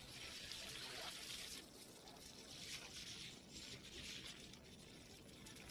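Faint trickling water.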